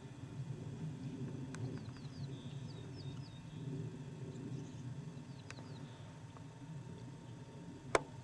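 A bird calling in quick series of short, high chirps, one run from about a second and a half to three and a half seconds in and a shorter one near the middle, over a steady low rumble. A single sharp click near the end is the loudest sound.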